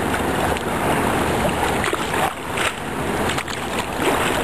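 Fast, turbulent river water rushing and splashing around a sea kayak as it is paddled, with a few sharper splashes near the middle.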